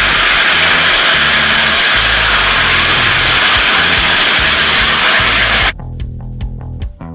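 Kerosene and nitrous oxide liquid rocket engine firing with a loud, steady roar, which stops abruptly near the end, leaving background music.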